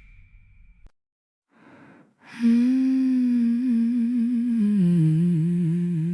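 Gap between two songs: a moment of silence, then the next song opens with a sustained wordless hummed vocal line, wavering in pitch and stepping down about halfway through.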